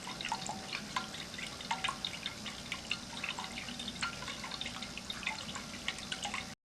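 Ceramic cat drinking fountain running: water spurting from the spout and splashing into the basin, with many small drips and plinks. The sound cuts off suddenly near the end.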